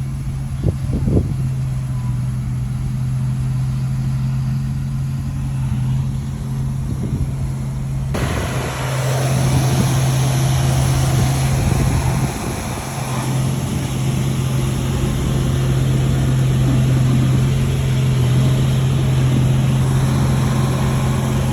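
Heavy diesel engine of earth-moving machinery running steadily with a low, even hum. About eight seconds in, a broad hissing noise suddenly comes in over it.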